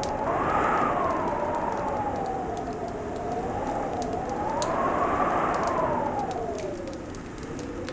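Wind howling in a whistling tone that slowly rises and falls, swelling about half a second in and again around five seconds, then sinking low near the end. Underneath, a wood fire crackles with scattered sharp pops and a steady hiss.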